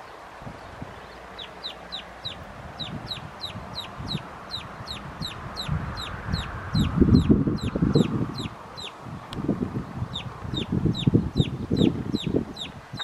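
A bird peeping over and over: short, high, downward-sliding peeps, about three a second, with one brief pause. Bouts of low rustling noise come and go underneath and are louder.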